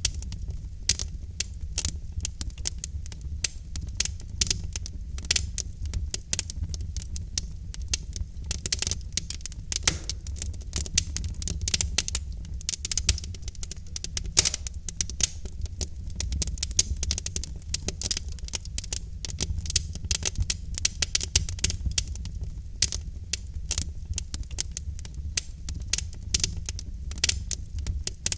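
Wood fire crackling in a fireplace: dense, irregular snaps and pops from the burning logs over a steady low rumble of the flames.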